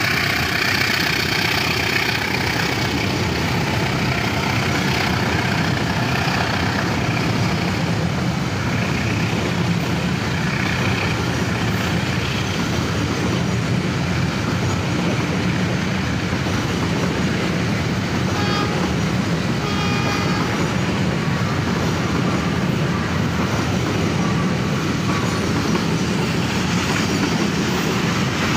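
A train passing close by: a steady rumble and rattle of wheels on the rails throughout, with faint brief tones about two-thirds of the way in.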